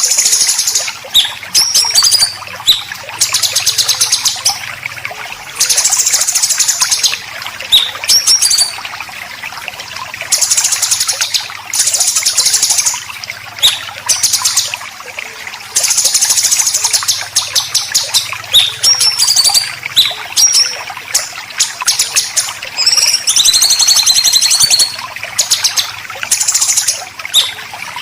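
Caged songbird song of white-rumped shama and greater green leafbird: fast, harsh rattling trills (besetan) of a second or two at a time, alternating with short whistled notes. A steady trickle of running water sounds underneath.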